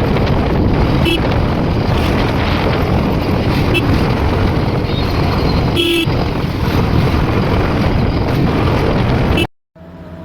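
A motorcycle on the move: steady wind rush and engine and road noise, with short vehicle-horn toots about one, four and six seconds in. The sound cuts off suddenly near the end.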